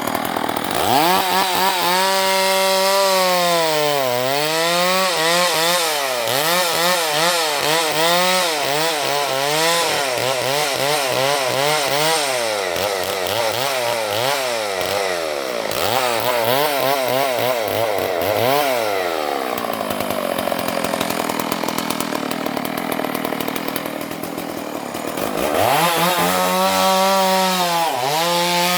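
Chainsaw cutting wood, its engine pitch rising and falling again and again as the chain bites in and bogs under load. For a few seconds past the middle the engine note gives way to a duller steady noise, then the rising and falling note returns near the end.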